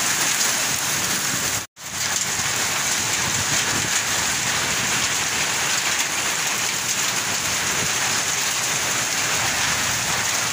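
Heavy rain pouring down in a dense, steady hiss. The sound cuts out for a moment just under two seconds in, then resumes.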